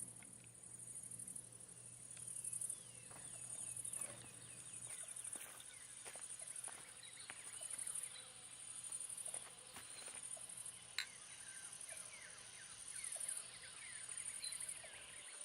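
Outdoor nature sound: a high insect chorus swelling and fading about once a second, with many short falling bird chirps over it. There is one sharp click about two-thirds of the way through.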